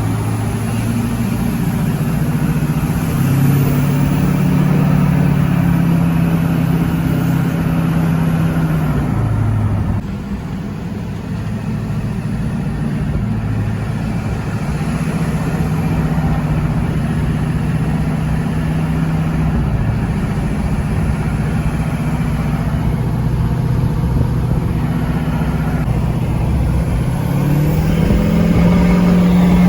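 LLY Duramax 6.6-litre V8 turbo-diesel running through a 4-inch straight-pipe exhaust. Its engine speed steps up and down several times, holding for a few seconds at each level.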